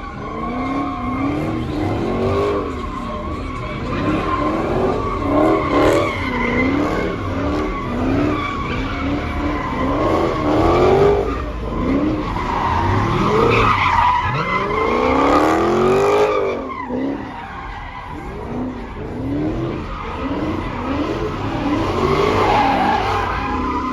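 Car tires squealing steadily as a car spins them, its engine revving up and down again and again.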